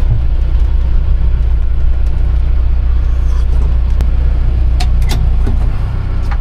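Mahindra Roxor's 2.5-litre diesel engine running with a steady, loud low rumble.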